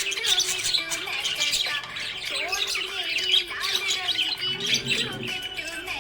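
Budgerigars chirping and chattering: a dense run of quick, overlapping chirps and squawks.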